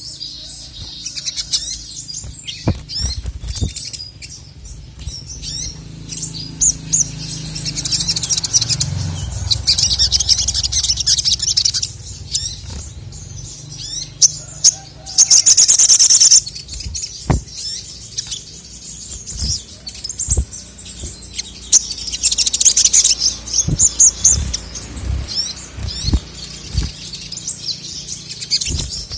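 Male sogon (sogok ontong) singing in runs of high, rapid chirping trills, with a loud burst about halfway through.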